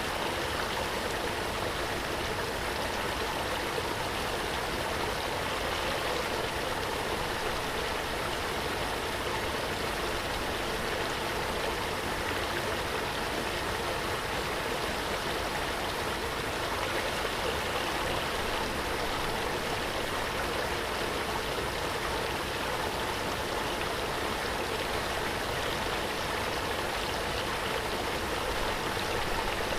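Waterfall: water falling and rushing in a steady, unbroken wash.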